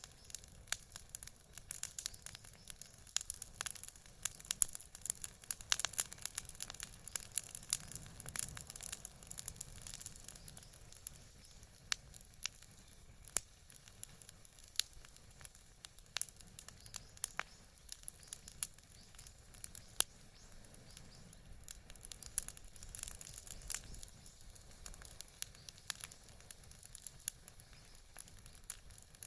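Bonfire crackling: irregular sharp pops and snaps over a low hiss of burning, busiest in the first ten seconds or so.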